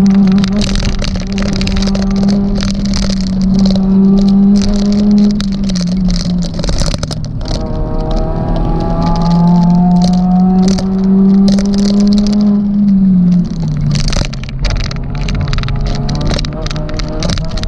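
Suzuki Swift ZC32S's 1.6-litre four-cylinder engine, heard from inside the car, running hard at high revs under load. Its pitch holds steady and drops slightly twice, about five seconds in and again near thirteen seconds. Frequent sharp rattles and clicks from the car's body sound throughout.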